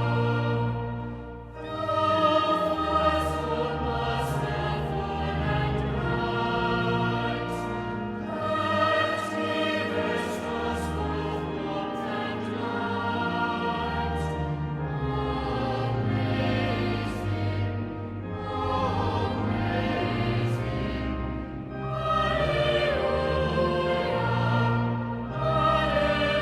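Choral music: a choir singing in sustained phrases over held low notes, with short breaths between phrases.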